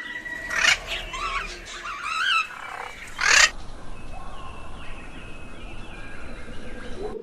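Bird calls: two loud, sharp calls with wavering calls between them in the first three and a half seconds, then fainter, quick falling chirps.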